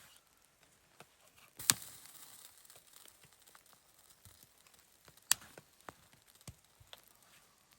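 Two sharp snaps about three and a half seconds apart, the first followed by a brief rustle, among several lighter clicks.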